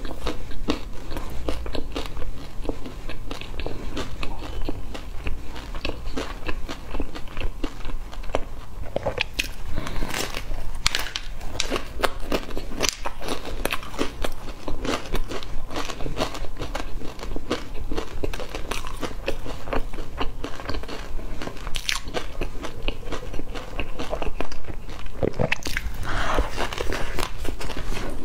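Close-miked biting and chewing of a doughnut topped with crunchy colourful cereal bits: a continuous run of crisp crunches and crackles.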